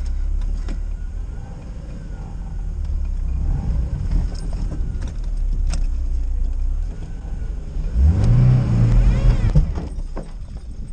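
An off-road car's engine runs under load with scattered knocks, then revs hard for about two seconds near the end.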